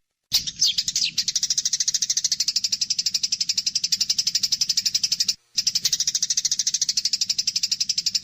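Eurasian tree sparrows' fighting chatter: a fast, steady run of sharp high chirps, about ten a second, with a few falling chirps about half a second in. The chatter breaks off for a moment at the start and again about five seconds in.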